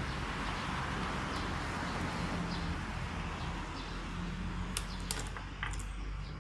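Sharp clicks of small gearbox parts being handled and pried apart on an airsoft gun's gearbox. The clicks come in a quick cluster about five seconds in, over a steady background hiss.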